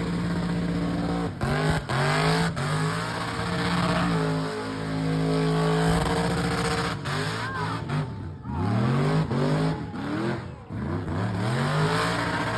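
Car engine revving hard during a burnout, held at high revs for a few seconds and then dropping and climbing again several times in quick succession.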